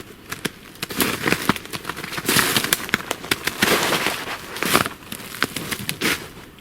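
Footsteps crunching through snow-covered forest undergrowth, with dry fallen twigs and branches cracking and snapping underfoot in an uneven run.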